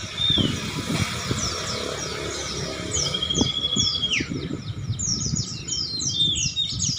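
Many caged songbirds chirping and whistling at once in a dense chorus of quick falling chirps, growing busier toward the end. About three seconds in, one long held whistle drops in pitch at its end. Underneath runs a low background of knocks and noise.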